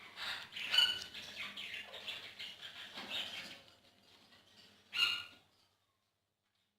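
Indian ringneck parakeets giving irregular short high chirps and squawks, with one louder burst of calls about five seconds in, after which the sound cuts off.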